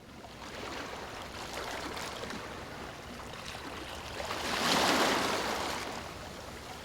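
Ocean waves washing onto a beach, with one wave breaking and swelling loudest about five seconds in before ebbing away.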